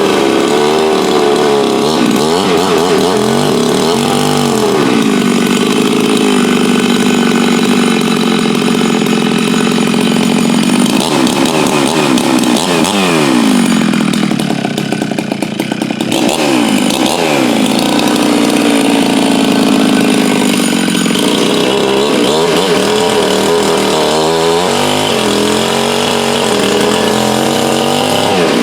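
Farmertec MS 660 clone two-stroke chainsaw, its exhaust port lowered one degree, running hard at high revs. The engine speed repeatedly sags and recovers, with a quieter, lower stretch about halfway through.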